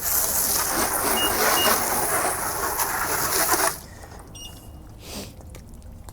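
A loud, steady hiss that cuts off suddenly about two thirds of the way in. Two short high beeps sound over it about a second in, and a fainter beep follows after the hiss stops.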